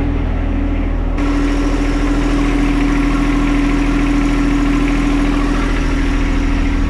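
John Deere 1025R compact tractor's three-cylinder diesel engine idling steadily while warming up, with a strong steady hum over it. About a second in the sound suddenly turns brighter.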